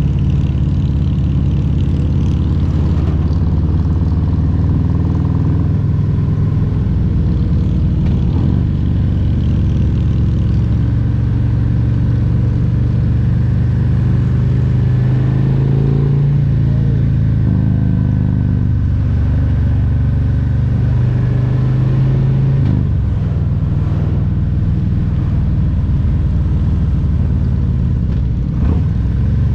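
Harley-Davidson Road Glide Special's Milwaukee-Eight 114 V-twin running under way on the road. Its note rises about halfway through and drops back a few seconds later as the throttle changes.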